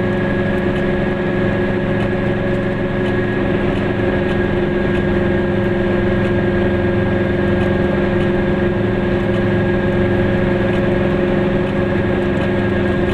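Goggomobil's small two-stroke twin engine running at a steady speed while driving, heard from inside the cabin as a constant drone that does not change pitch, with road and tyre noise underneath.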